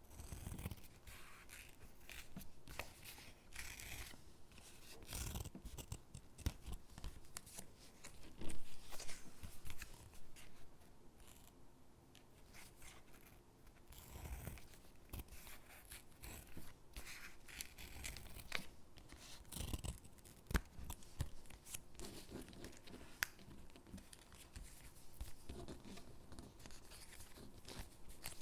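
Close-up paper handling: stickers peeled from their backing sheet and pressed onto paper gingerbread cutouts, with irregular crisp rustles, soft peels and small ticks, loudest about eight seconds in.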